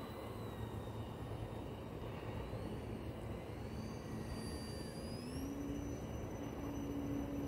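Small electric RC airplane's brushless motor and propeller whining in flight, its pitch rising twice as the throttle is pushed up and then holding steady.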